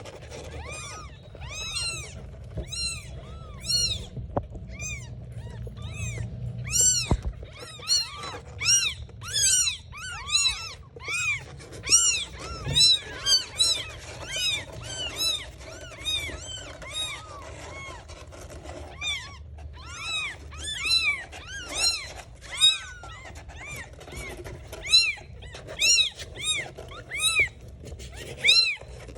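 Kittens mewing over and over: high-pitched cries that rise and fall in pitch, about one to two a second, with several cries overlapping at times.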